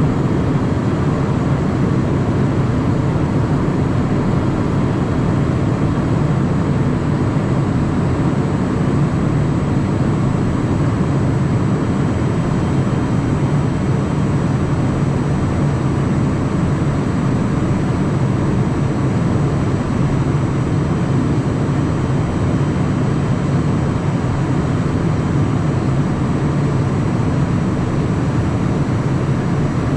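Steady cockpit noise of a Cessna Citation Mustang light jet, its Pratt & Whitney PW615F turbofans and airflow making a constant low drone with faint steady tones over it.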